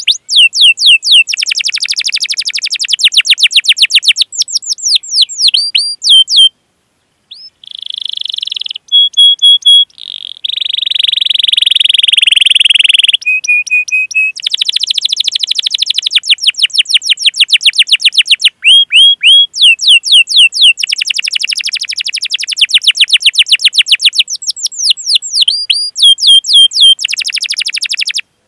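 Domestic canary singing a long song: fast rolled trills of quickly repeated down-sweeping chirps, alternating with steady whistled notes and a harsher buzzy phrase, with a brief pause about seven seconds in.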